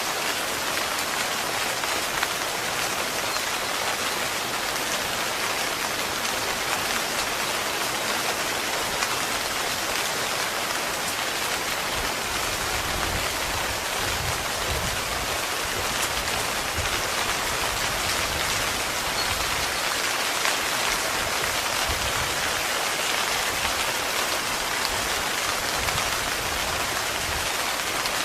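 Heavy, steady rain falling on a tent's fabric, an even hiss with no letup.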